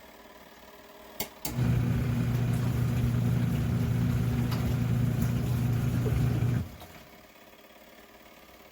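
Two clicks of a timer knob, then the portable twin-tub washer's electric motor humming steadily for about five seconds before cutting off abruptly; two more clicks come near the end.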